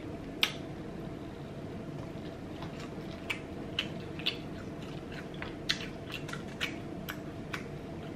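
Close-miked chewing of a mouthful of chili gobi, battered fried cauliflower in chili sauce, with a dozen or so sharp, wet mouth clicks and smacks at irregular intervals over a faint steady hum.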